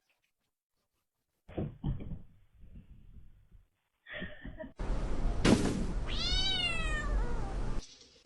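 Several thumps and knocks, then a domestic cat meows once, a call of about a second that rises and then falls in pitch.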